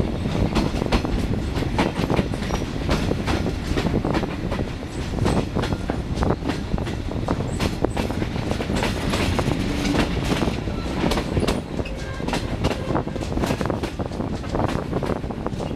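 Passenger train running along the track, heard from on board: a steady running rumble with many sharp clicks and clacks from the wheels on the rails.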